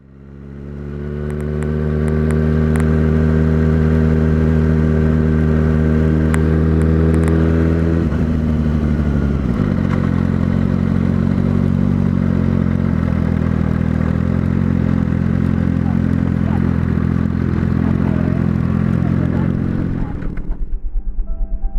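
Motorcycle engine idling steadily, its pitch settling a little lower about nine seconds in, then cutting off near the end. A few sharp crackles come from a loose microphone plug.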